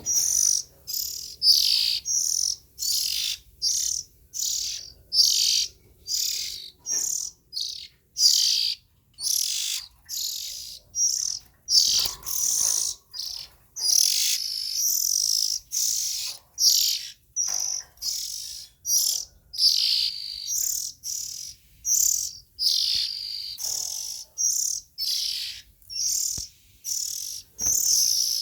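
Young oriental magpie-robin calling over and over: short, scratchy, high calls, about one and a half a second.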